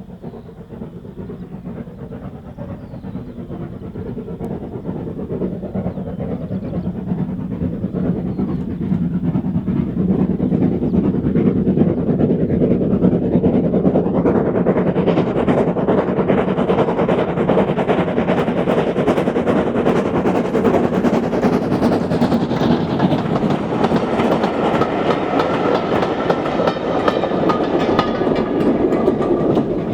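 Steam-hauled train approaching and running past close by, its wheels clattering over the rail joints. It grows louder over the first twelve seconds or so, then stays loud as the train passes.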